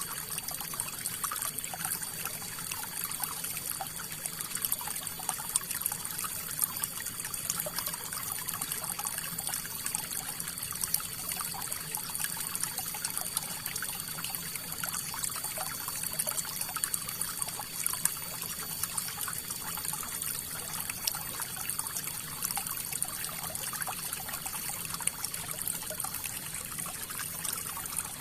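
River water flowing and trickling steadily over stones, a continuous bright splashing hiss with small crackles and no let-up.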